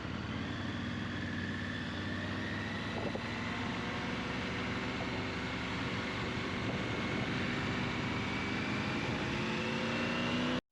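Motorcycle engine running steadily under way, with road and wind noise; its pitch rises slowly as it gathers speed. The sound cuts off suddenly near the end.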